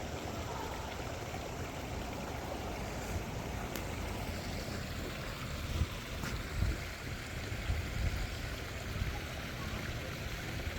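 Backyard pond waterfall splashing and trickling steadily, with a few short low thuds in the second half.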